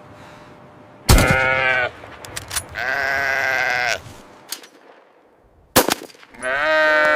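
An animal calling three times, each a loud bleat-like call about a second long. Sharp knocks come just before the first call and before the last.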